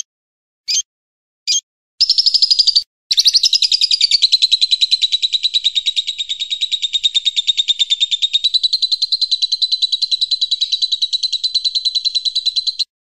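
Recorded songbird calls: a few short, separate high chirps, then a long, very fast trill of repeated high notes that runs for about ten seconds after a brief break near the start.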